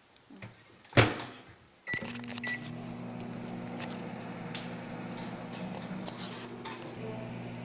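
Microwave oven door shut with a loud click, two short keypad beeps, then the oven starting and running with a steady hum from about two seconds in.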